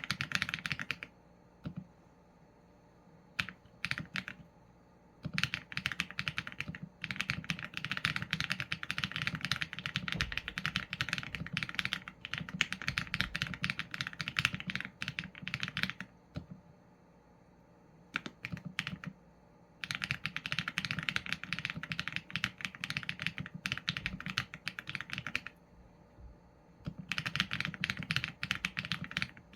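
Typing on a Qsenn A75 mechanical keyboard with Leobog Graywood v4 linear switches and PBT keycaps. Runs of rapid keystrokes are broken by several pauses of two to four seconds, each with only a stray keystroke or two.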